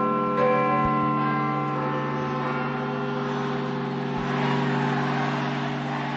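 Large tower bells ringing, with one fresh strike about half a second in and long overlapping ringing tones. About four seconds in there is a low thump, followed by a rising wash of noise.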